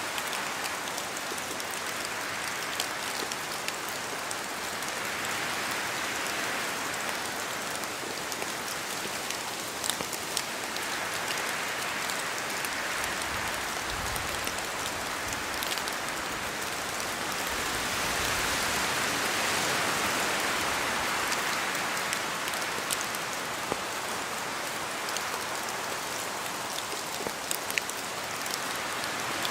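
Steady rain falling in a forest, with scattered separate drops ticking as they fall from the trees. The rain swells slowly a couple of times, loudest a little past the middle.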